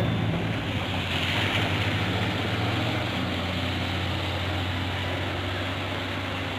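A motor running steadily: a low, even hum under a constant rushing noise, easing off slightly toward the end.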